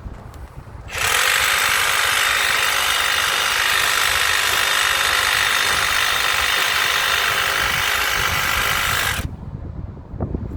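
A power tool running steadily for about eight seconds, starting abruptly about a second in and cutting off near the end.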